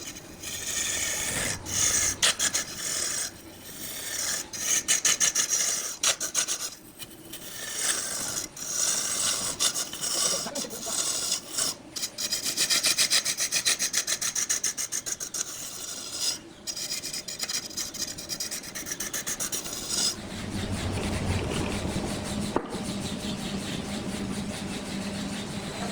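Turning tool cutting a spinning wood block on a lathe: a rasping scrape made of fast repeating ticks, coming in bursts as the cut goes on and off. About twenty seconds in it turns to a steadier sound with a low hum.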